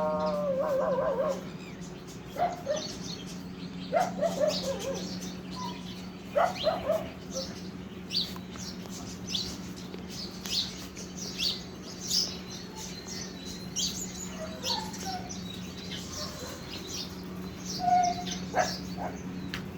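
Small birds chirping in many short, high calls, thickest in the middle stretch. A few lower, pitched animal calls come in the first several seconds, over a steady low hum.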